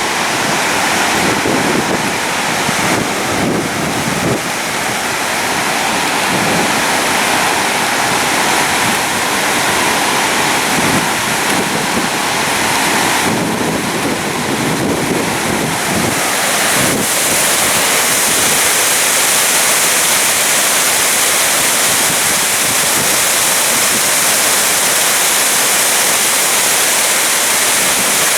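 Loud, steady rushing of wind and surf, with wind buffeting the microphone.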